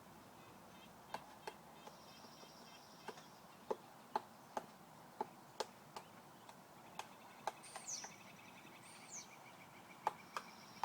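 Woodpecker pecking: single sharp taps at an uneven pace, roughly one or two a second, with a pause of about two seconds near the end. Faint high, downward-sweeping bird calls sound in the second half.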